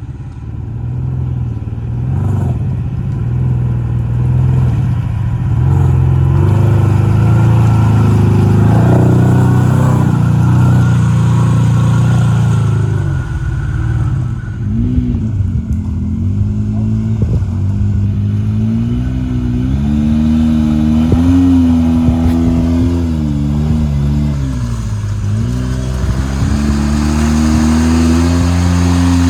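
Side-by-side UTV engine revving hard while the machine tries to get through a mud hole. Its engine note is steady and heavy at first, then rises and falls again and again through the second half, ending held high.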